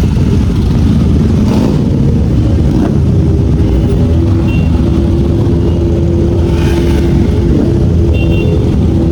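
Road vehicle engine running steadily under a loud low rumble, with a steady engine note holding through the middle.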